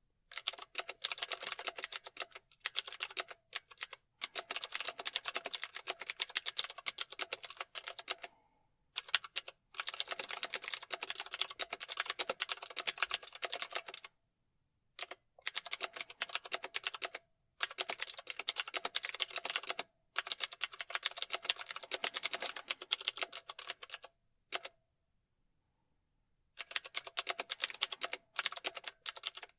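Computer keyboard being typed on: fast runs of keystroke clicks in bursts of a few seconds, broken by short pauses and one longer pause of about two seconds late on.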